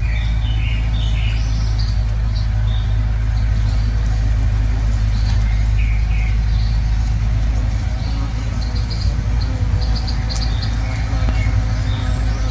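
Hornet buzzing steadily in a low hum as it struggles caught in a spider web, with small birds chirping now and then.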